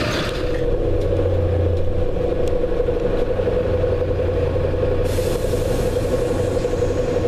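London bus running, heard from on board: a steady low engine hum with a steady mid-pitched drone. A short hiss comes in about five seconds in.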